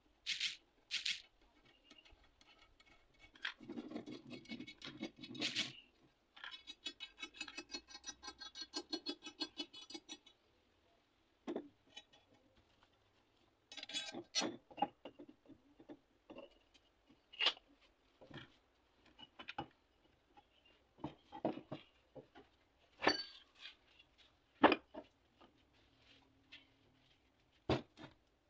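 Workshop handling noises: irregular clicks, knocks and clinks of small tools and metal parts being picked up and set down, with a few seconds of rapid, even ticking about seven seconds in.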